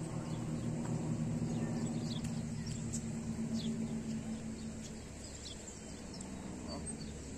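Small birds chirping now and then over a steady low hum that fades about five seconds in.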